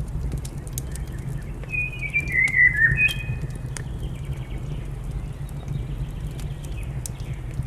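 A bird sings a short warbled phrase that falls in pitch, about two seconds in, over a crackling fire with sharp pops and a steady low rumble. Fainter bird calls come and go.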